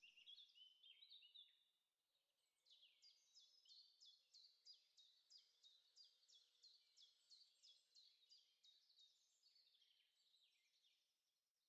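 Faint birdsong: a brief jumble of twittering, then a bird repeating one quick, high, falling note about three times a second for several seconds before it fades.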